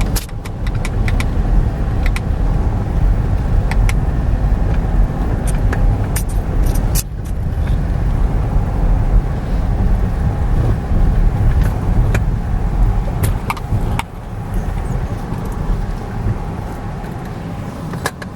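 A motor vehicle driving over rough ground: a steady low engine and road rumble, with scattered clicks and rattles throughout.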